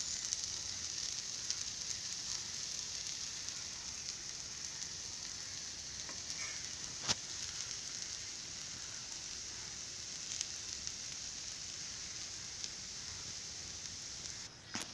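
Dosa batter sizzling on a hot pan, a steady hiss that slowly dies down as it cooks, with one sharp click about seven seconds in.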